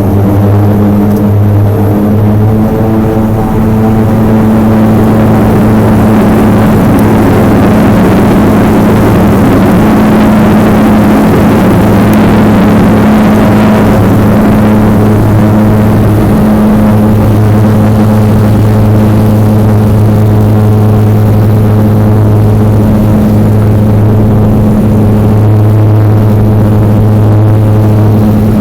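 BAE Jetstream 32's twin Garrett TPE331 turboprops running at high power during takeoff: a steady, loud low propeller drone with a rushing noise that swells midway and eases again.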